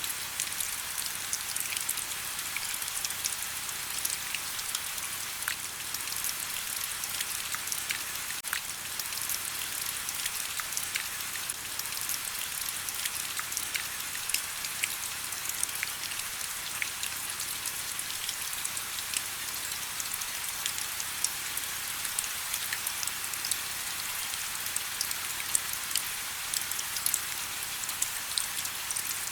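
Steady rain with many small drops pattering in a dense, even hiss, individual drops ticking through it.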